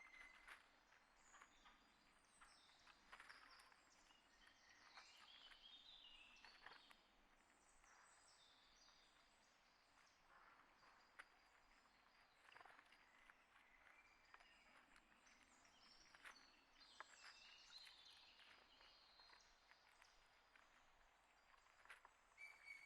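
Faint chirps and calls of small birds, short high notes scattered throughout, with scattered light clicks.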